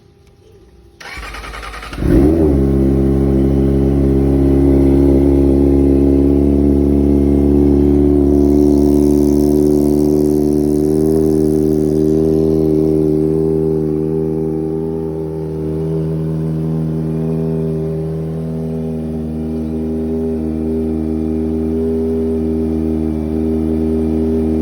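Kawasaki ZX-25RR's four-cylinder engine with an SC-Project aftermarket exhaust, cold-started. The starter cranks for about a second, the engine catches with a brief rev, then it settles into a steady idle.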